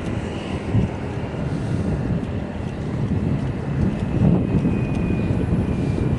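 Steady rumbling noise of riding a bike: wind on the microphone and rolling road noise, with a faint thin high whine in the last second or so.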